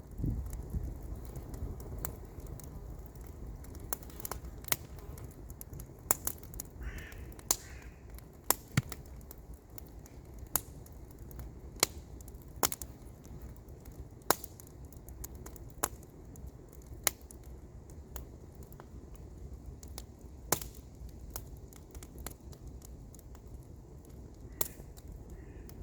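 Wood campfire crackling, with irregular sharp pops and snaps over a low steady rumble. A bird calls briefly about seven seconds in and again near the end.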